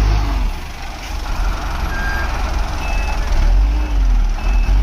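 Heavy vehicle engines running on a steep hill road, a low rumble with the pitch rising and falling, and a few short high beeps.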